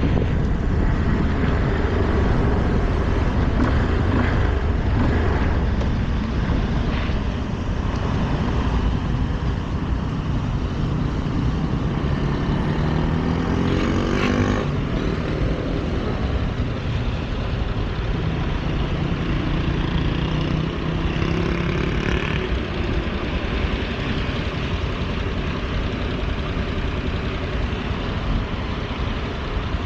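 Yamaha Lander motorcycle on the move, with heavy wind rushing over the microphone. The engine note rises in pitch about halfway through as it accelerates, then settles into a steadier tone.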